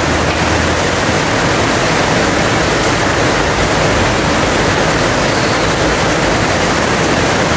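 Heavy rain falling steadily, a loud even hiss with no letup.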